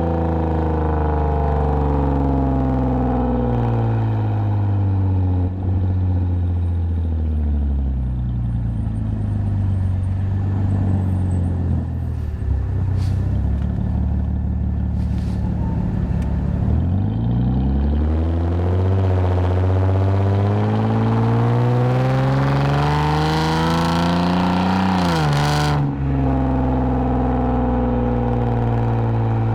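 2010 Lexus IS250 AWD's V6 engine heard through an aftermarket full exhaust with valved mufflers. The engine note falls steadily for about twelve seconds as the car slows, stays low for a few seconds, then climbs through a long pull. It drops sharply at a gear change about 26 seconds in and then holds steady.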